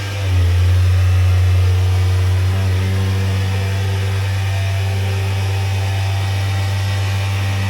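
Nissan 1.5 dCi K9K four-cylinder diesel engine running steadily. It picks up slightly just after the start and then holds an even note. It is being run after DPF foam cleaner was sprayed into the diesel particulate filter.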